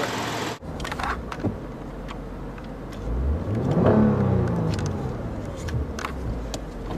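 2014 Lexus IS 350 F Sport's 3.5-litre V6 idling in Park, then revved once: the pitch rises about three seconds in, peaks near four seconds and falls back toward idle.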